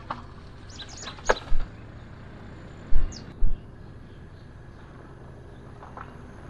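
Birds chirping briefly a few times over a steady low outdoor rumble, with four short dull thumps, the loudest sounds, spread over the first few seconds.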